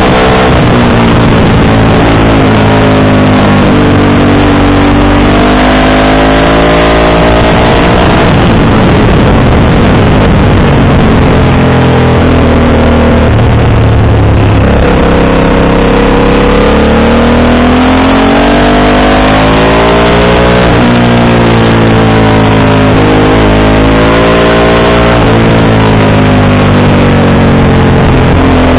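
Motorcycle engine with an aftermarket JC exhaust, being ridden: the engine note climbs with the revs and drops back at each gear change, several times over, over a steady rushing noise.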